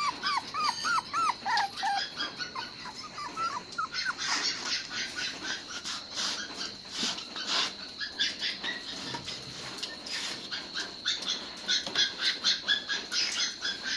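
Puppy whimpering in a quick run of short high cries, about three a second, fading out about two seconds in; after that, a long stretch of sharp clicks and scratching.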